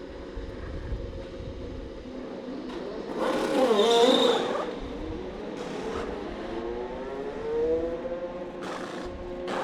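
IndyCar race cars on track, their twin-turbocharged V6 engines at speed. One passes close about three to four seconds in, its pitch swooping down as it goes by. Another engine note climbs later, with wind buffeting the microphone underneath.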